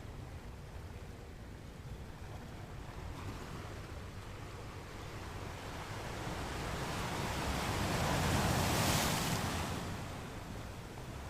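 Ocean surf: a steady wash of waves, with one wave swelling and breaking loudest about three-quarters of the way through before it fades back.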